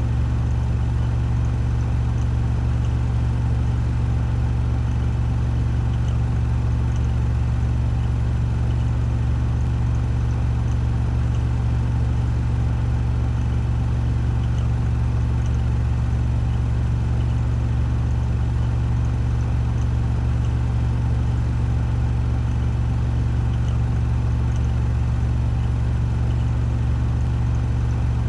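Washing machine drum spinning at 1400 rpm on its spin cycle: a steady low hum with a fainter whir above it, unchanging throughout.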